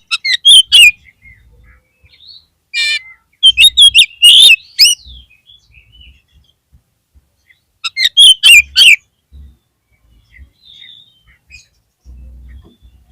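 Oriental magpie-robin (kacer) singing in three loud bursts of quick, varied song a few seconds apart.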